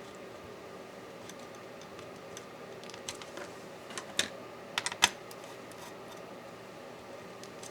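Sharp small clicks and taps of tools and small parts as a MacBook Pro laptop is taken apart. They come in a short cluster from about three to five seconds in, over a steady faint hum.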